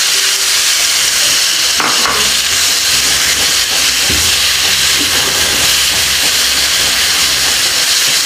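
Marinated chicken pieces sizzling steadily in hot oil in a nonstick frying pan.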